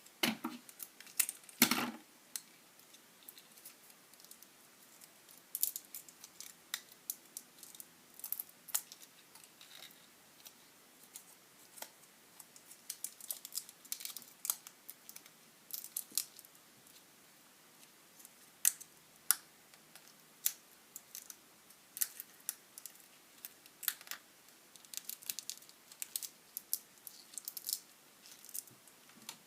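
Irregular small clicks and taps of cut plastic drinking-straw pieces being worked onto the sides of a wooden popsicle stick, a few sharper knocks in the first two seconds.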